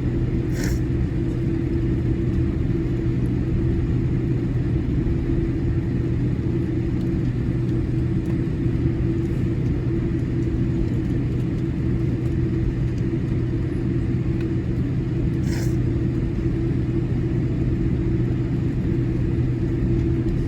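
Steady cabin rumble and hum of a Boeing 787-8 Dreamliner taxiing with its engines at idle. Two faint short clicks, one near the start and one about three-quarters of the way through.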